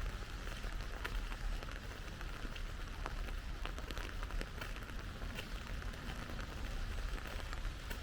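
Steady rain falling, with many separate drop hits heard clearly over an even hiss, and a low rumble underneath.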